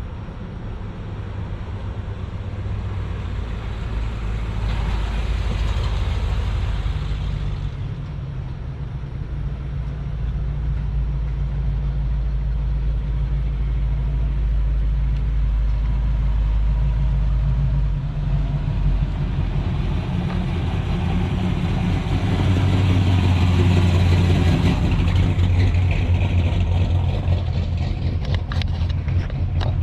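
Cars and trucks driving past one after another, engines running with a steady low rumble. Two vehicles swell up as they pass, one about five seconds in and a louder one past twenty seconds.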